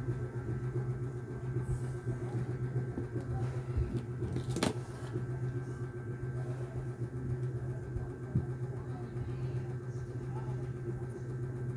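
Steady low machine hum, with one sharp click a little past halfway.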